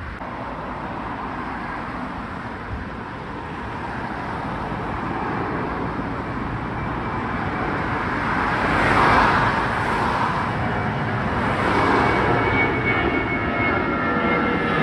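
Jet airliner's engines at takeoff power, the noise growing steadily louder, with a thin whine coming through in the last few seconds.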